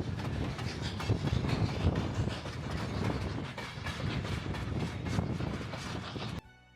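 Steam train hauled by Nevada Northern Railway's 1917 Baldwin 2-8-0 locomotive No. 81 running along the line, a steady rumble crossed by a quick run of clicks. It cuts off suddenly near the end.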